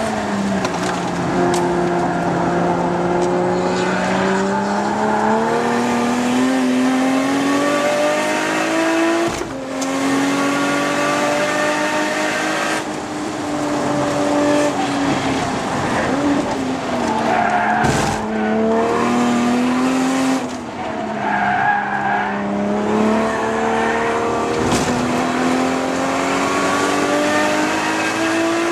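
Toyota Supra MKIV's 2JZ-GTE twin-turbo straight-six heard from inside the cabin, driven hard: it revs up, drops in pitch sharply at each of several gear changes, and falls away as the car slows for corners. Tyres squeal briefly here and there.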